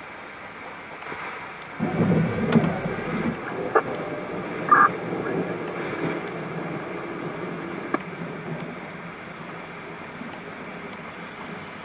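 Steady thunderstorm noise of wind and rain, with a brief low rumble about two seconds in and a few faint clicks.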